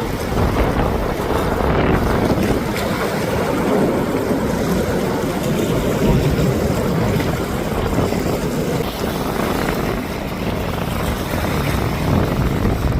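Steady rushing roar of jet airliner engines, with wind buffeting the microphone.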